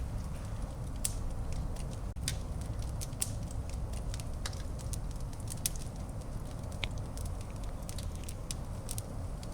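Wood fire burning in a fireplace, a steady low rumble with irregular sharp crackles and pops scattered through it.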